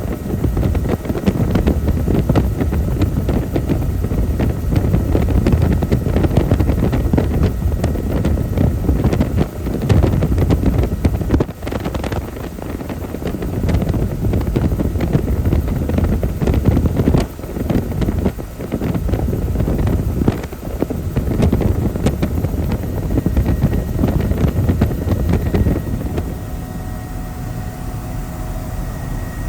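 Helicopter in flight: rotor and engine noise mixed with heavy wind buffeting on the microphone, rising and falling in gusts. Near the end the wind eases and a steadier hum with a faint high whine comes through.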